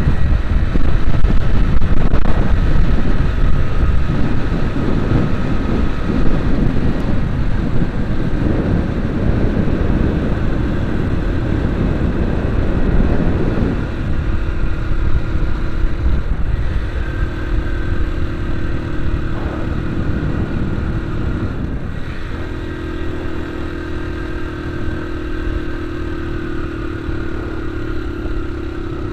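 Vehicle engine running under way, with heavy road and wind rumble in the first half. Later a steady engine note comes through, breaking off briefly twice. Low gear is being used on a climb.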